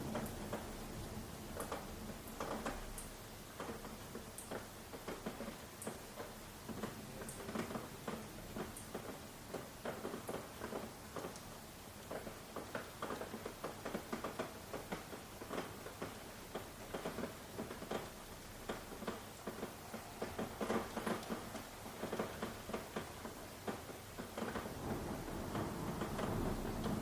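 Rain falling steadily, with many irregular close drops tapping against a surface over a constant hiss.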